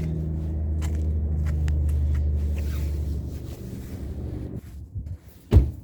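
A vehicle engine idling with a steady low hum that stops about four and a half seconds in, followed by a single thump near the end.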